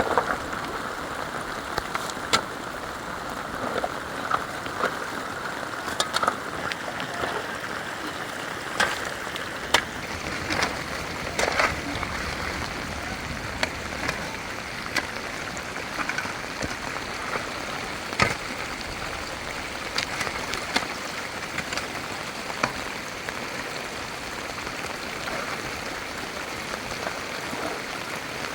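Steady rain falling, with irregular sharp taps and knocks scattered through it.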